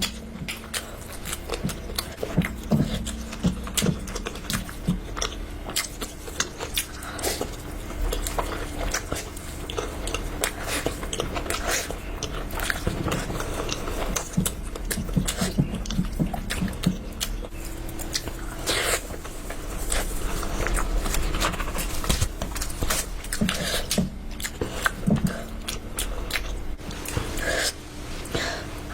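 A person eating: biting and chewing food, with many irregular short clicking mouth sounds.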